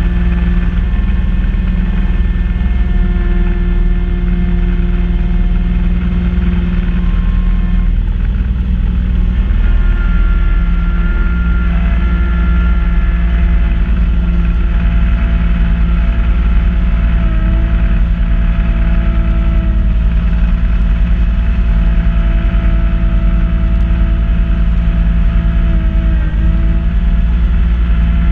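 Kubota B2650 compact tractor's diesel engine running steadily while powering a front-mounted snow blower, with a few steady tones that dip slightly in pitch now and then.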